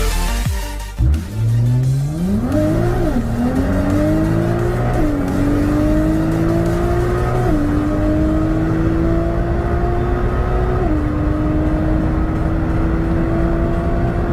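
Electronic music ends in the first second, then a high-performance car engine accelerates hard through the gears. Its pitch climbs and drops sharply at each of four upshifts, and each gear is held longer than the last.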